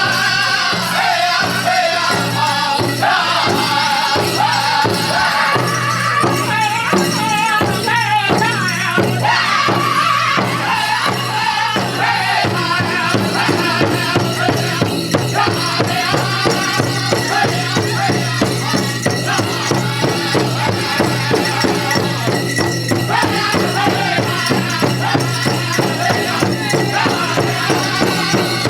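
Powwow drum group singing a chicken dance song over a fast, steady beat on a big drum, with dancers' bells jingling. The singing is clearest in the first twelve seconds or so, and the quick drumbeat and jingling carry on after it.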